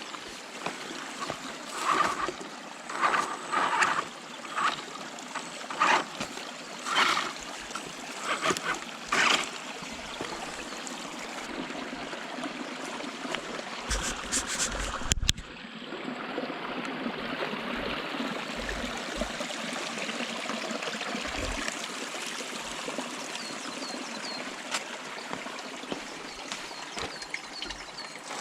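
Valley stream water flowing steadily, with a run of short louder rushing bursts about a second apart in the first ten seconds and a sharp click about halfway through.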